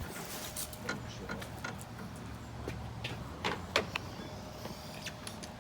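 Scattered sharp clicks and taps of hand tools and bolts on metal, the loudest about two-thirds of the way through, over a steady low hum.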